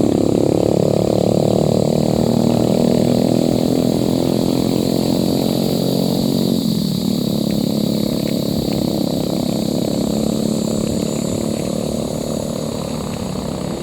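Motorcycle engine running steadily under way, its pitch dipping briefly and coming back about seven seconds in.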